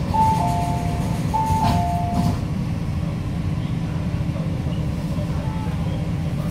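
MTR South Island Line S-Train door chime: a two-note descending tone played twice in the first couple of seconds, signalling the doors at a station stop. A steady low rumble of the train's running equipment sounds throughout, with a couple of short clicks from the doors.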